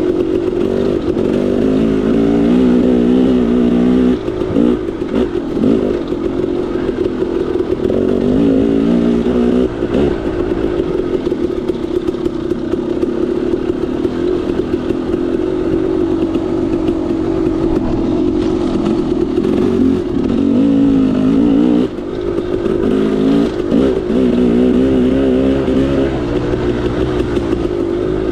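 KTM 300 XC-W single-cylinder two-stroke dirt bike engine under way on a trail, revving up and down continually with brief let-offs of the throttle.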